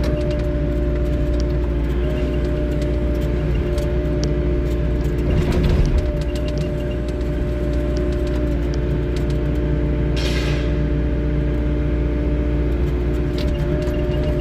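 Diesel engine of a 3W wheeled excavator running steadily, with a brief swell in level about five to six seconds in and a short hiss about ten seconds in.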